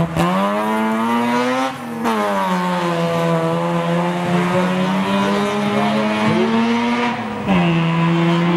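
Classic rally car engine running hard at high revs. The pitch climbs, then falls with a brief lift about two seconds in, holds steady under power, and falls once more near the end, as at gear changes.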